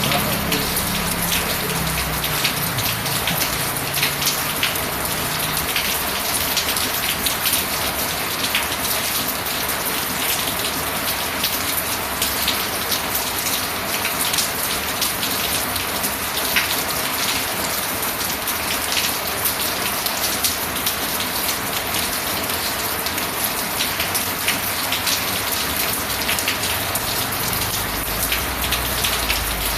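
Steady rain falling on a hard surface, with many small drop ticks over a constant hiss. A low hum fades away in the first few seconds, and a low rumble comes in near the end.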